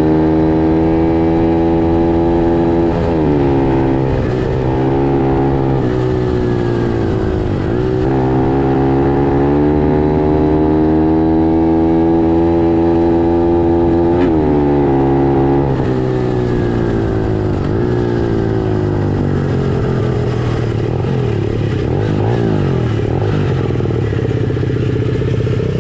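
Pit bike engine running at high revs. Its pitch drops and climbs back again about three times, as the throttle is let off and opened up again, then runs lower and unevenly for the last ten seconds.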